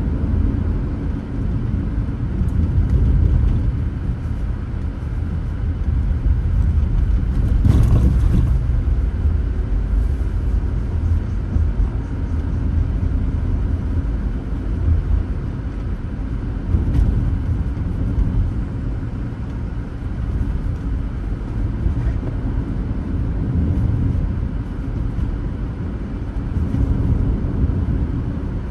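Car driving on the road, a steady low rumble of tyre and engine noise, with a brief louder rush about eight seconds in.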